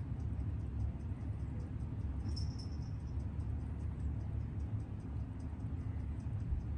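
Mechanical watch movement ticking evenly, about six beats a second, the beat of a Seiko 6138 automatic chronograph, under a steady low rumble. A brief high tone sounds about two and a half seconds in.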